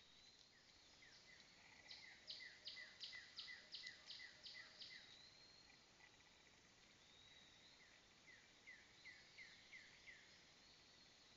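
A bird giving two runs of short, quick down-slurred chirps, about three a second. The first run, about two seconds in, is louder; a shorter one follows near the end. Faint steady insect buzzing continues underneath.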